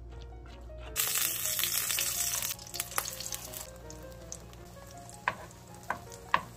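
Egg batter with chopped cabbage and rice-cake slices sizzling in hot oil in a frying pan. The sizzle starts suddenly and loudly about a second in as the batter hits the pan, then settles to a quieter sizzle. A few light clicks of the wooden spatula come as the batter is spread.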